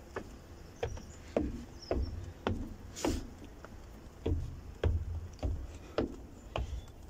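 Footsteps of a person walking at a steady pace, about two steps a second, with the thud of each footfall on the microphone. A brief hiss about three seconds in.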